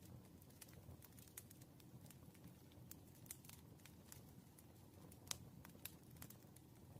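Faint, irregular clicks and taps of a pen on paper at a desk while practice problems are worked, over a low room hum; one sharper tap a little past the middle.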